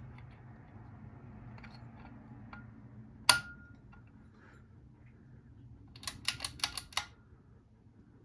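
Ceiling fan running with a low, steady hum. A single sharp click about three seconds in, then a quick run of about seven clicks near the end.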